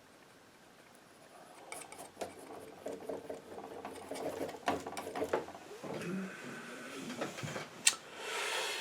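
Painting knife working oil paint: irregular clicks and short scrapes of the steel blade, starting about a second and a half in, with a longer scrape near the end.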